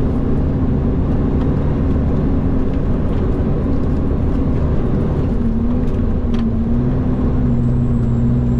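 Road train prime mover's diesel engine running at low speed with a steady low hum; its pitch dips briefly and settles again about halfway through.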